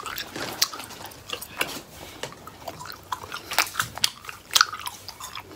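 A person chewing a Starburst fruit chew: wet mouth smacks and clicks at an irregular pace.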